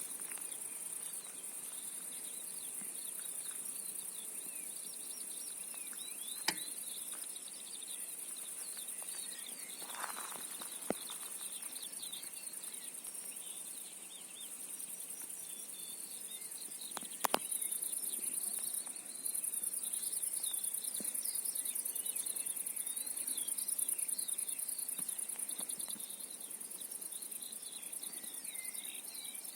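Outdoor insect chorus of crickets: a steady, very high trill, with many short chirps in a lower register over it and a few sharp clicks.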